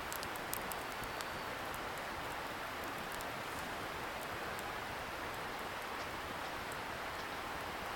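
Wood bonfire crackling, with a cluster of sharp pops and ticks in the first second or so and occasional ones after. Underneath is a steady rushing hiss from a distant river.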